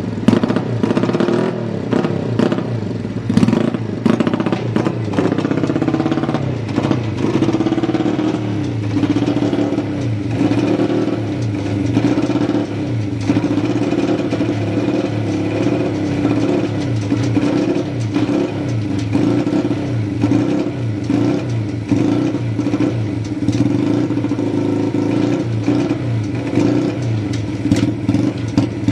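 Honda CB175 parallel-twin four-stroke engine running. Its speed varies in the first several seconds, then it settles about seven seconds in to a steady idle, which the seller describes as stable with no abnormal noises.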